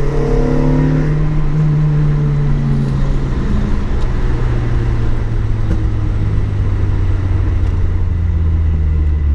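Car engine running on the move, its note sinking slowly as the revs come down, over steady road noise.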